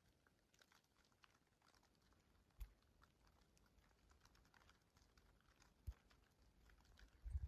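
Faint, irregular crackling of a wood fire burning in a fireplace, with two soft knocks.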